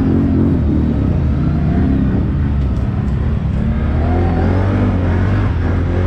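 ATV engine running under way, its revs rising and falling, with a climb in revs about four seconds in.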